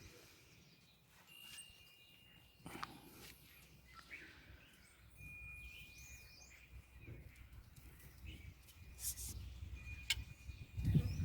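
Quiet garden ambience with a few short, high bird whistles and chirps, a couple of sharp clicks, and a low rumble growing near the end.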